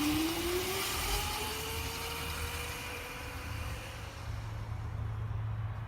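Razor electric dirt bike's motor whining, rising in pitch as the bike speeds up over the first couple of seconds, then levelling off and fading, with a rushing noise that dies away about four seconds in.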